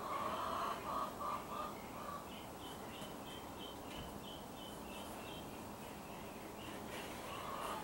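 Birds calling in the background: a quick run of about five repeated calls in the first two seconds, then a steady series of short, higher chirps at about three a second, over faint outdoor hiss.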